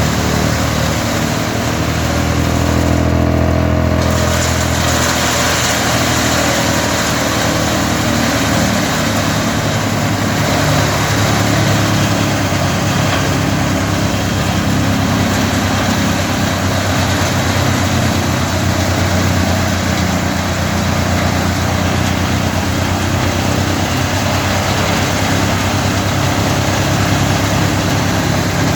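Wood chipper running steadily, a loud engine drone mixed with a broad mechanical hiss. About three seconds in the hiss briefly drops away while the low drone grows stronger, then the steady running resumes.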